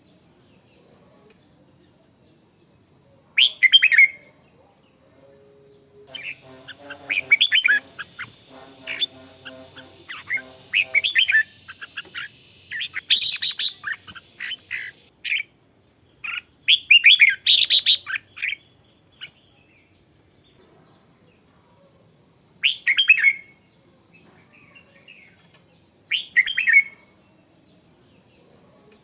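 Red-whiskered bulbul singing short, loud, bright song phrases every few seconds, with a busier run of overlapping song in the middle. A thin steady high tone sits underneath throughout.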